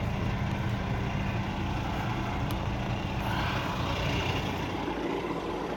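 Semi truck's diesel engine idling steadily, with a brief hiss about three seconds in.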